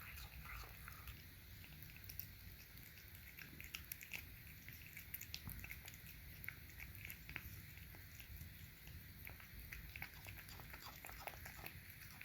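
A cat eating wet canned cat food: faint, irregular chewing and mouth clicks.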